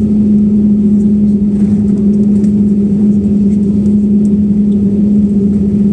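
Airliner noise: a loud, steady low rumble with a steady hum running through it.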